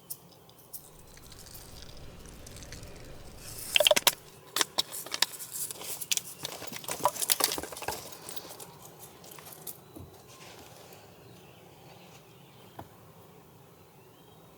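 Handling noises: a dense run of light clicks and rattles between about four and eight seconds in, then a few isolated taps.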